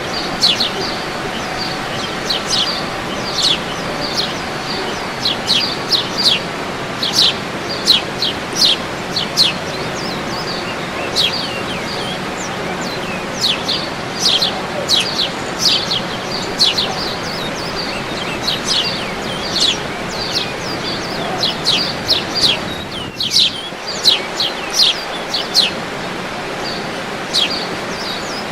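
Birds singing: a continuous stream of short, sharp chirps that sweep quickly downward, over a steady rushing background noise.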